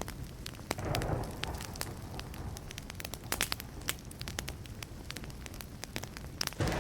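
Burning wood campfire crackling: a dense run of sharp snaps and pops over a low rumble, with a brief fuller surge about a second in and another near the end.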